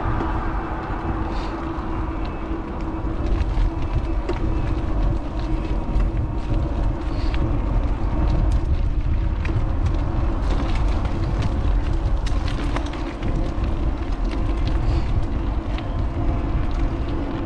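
Wind rushing over a bike-mounted action camera's microphone with tyre and road noise from a moving electric bike. A steady hum sits under it, with scattered small clicks and rattles from bumps.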